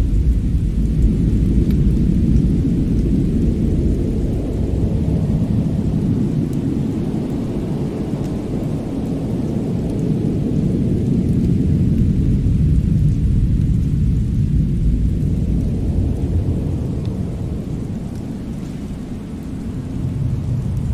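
Fireplace-and-winter-wind ambience: a deep, steady rumble that swells and ebbs, easing off near the end and then building again, with a few faint crackles over it.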